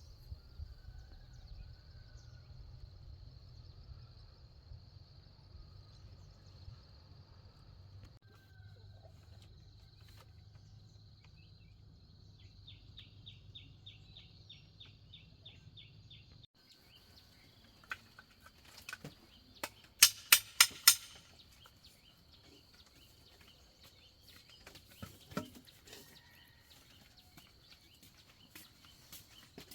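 Rural outdoor ambience with a steady high-pitched insect drone. A short rapid ticking trill comes near the middle, and a quick run of sharp knocks, the loudest sounds, about two-thirds of the way in.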